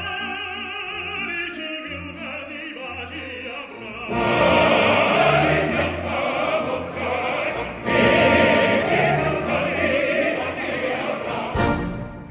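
Operatic music: a solo voice singing with wide vibrato over orchestra, swelling about four seconds in to a loud full passage with choir and orchestra.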